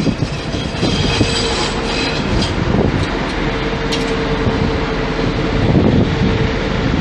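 Regional train of red double-deck coaches hauled by an electric locomotive rolling through the station. The wheels rumble and clatter over the rails with a steady whine, a brief high squeal in the first couple of seconds and a sharp click about four seconds in.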